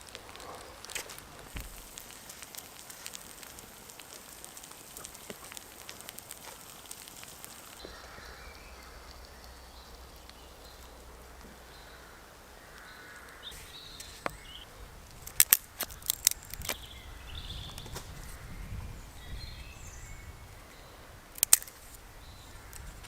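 Quiet woodland background with a few sharp cracks or snaps: a cluster about two-thirds of the way through and a single louder one near the end.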